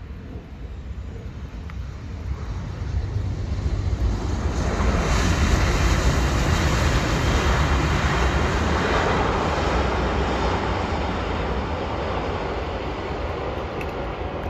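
Jet engine noise from a Boeing 747-400 freighter's four engines, swelling over the first few seconds, loudest around the middle, then slowly fading.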